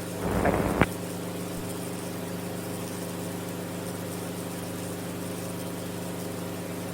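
Steady drone of an Enstrom F28F helicopter's piston engine and rotor in powered flight, heard from inside the cabin. In the first second a short crackly burst of noise ends in a sharp click.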